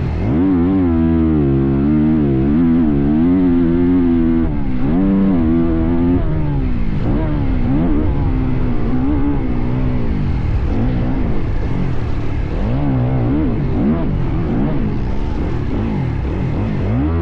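Motocross bike engine being ridden hard around a dirt track, its pitch rising and falling over and over as the throttle opens and closes.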